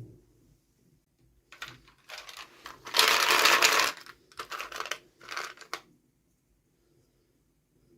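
Packaging rustling and crinkling as a toy is unwrapped by hand, in a few short bursts with the loudest stretch in the middle, then stopping.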